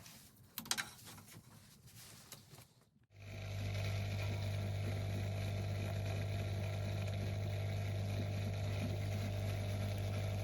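A few faint clicks, then about three seconds in an LG washing machine's drain pump switches on and runs with a steady low hum over an even hiss. It is most likely the newly fitted pump on its test run.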